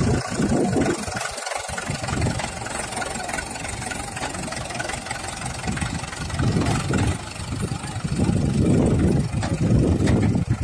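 Diesel engine of heavy farm machinery running, getting louder about two-thirds of the way through.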